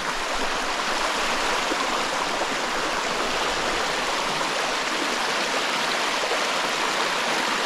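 Small mountain stream running over slate rock: a steady rush of flowing water.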